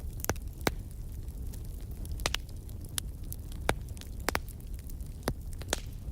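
Wood fire burning in a fireplace: a low steady rumble of the flames with sharp, irregular crackles and pops of burning wood, about a dozen in six seconds.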